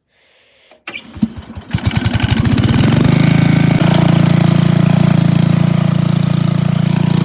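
Engine of a 1967 Bolens 750 garden tractor starting: a second or so of near quiet, then it turns over and catches, speeds up and settles into a steady run within about two seconds. It runs a little rough, which the owner puts down to a worn-out carburetor.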